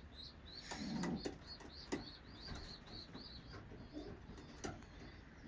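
Pigeons in a loft: a low coo about a second in, over a steady run of thin, high peeps, about three or four a second, with a few sharp clicks.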